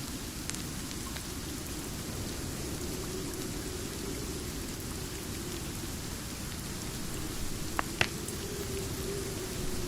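Steady rain with the crackle of a wood fire: a few scattered sharp pops, the two loudest close together about eight seconds in.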